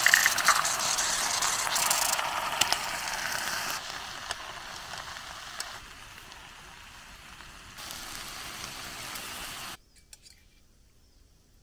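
Eggs frying in hot oil with onion and chorizo in a small enamelled pan on a camping gas stove, sizzling with small crackles. The sizzle is loudest as the eggs go in, then quieter and uneven, and it stops abruptly near the end.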